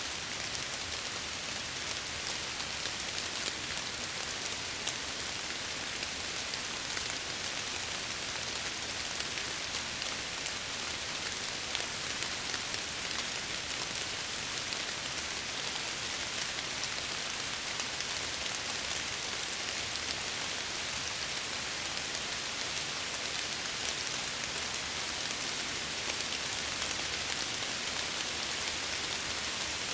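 Steady rain falling, a dense even hiss with fine patter of drops on glass.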